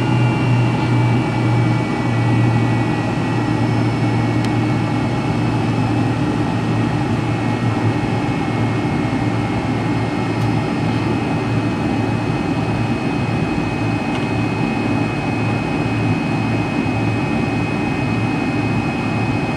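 The rear-mounted Pratt & Whitney JT8D turbofans of a McDonnell Douglas MD-83 heard from a rear cabin seat, running steadily at low power. They make a steady high whine over a low hum.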